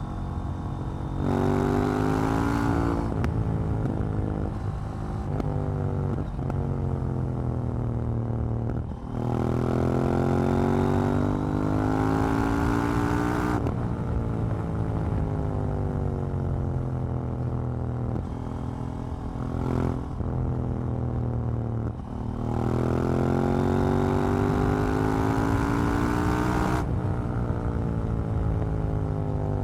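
KTM 790 Duke's parallel-twin engine under hard acceleration three times, each a steeply rising pull broken by quick gear changes, with stretches of falling revs off the throttle between the pulls.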